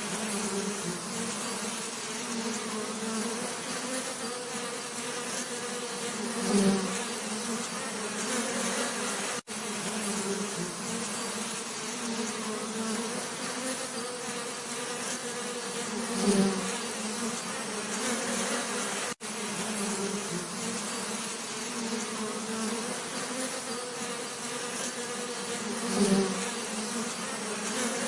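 Bees buzzing, a steady droning hum that swells louder three times, about every ten seconds. The sound cuts out for an instant twice.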